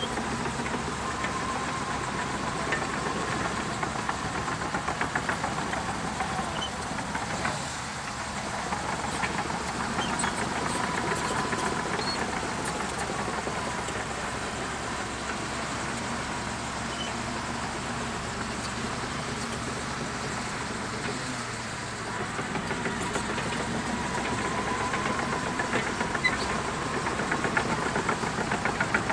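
Shantui DH17C2 bulldozer's diesel engine running and working, with a whine that rises and falls and a steady rattle. The engine swells louder twice, about a third of the way in and again near the end.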